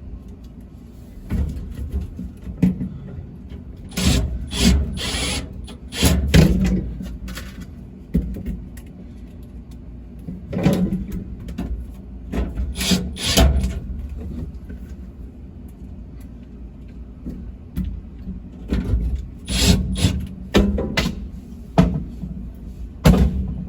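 Irregular clunks, clatter and scraping from hands working metal parts of a refrigerated prep table back into place during reassembly, in several bursts with quieter stretches between.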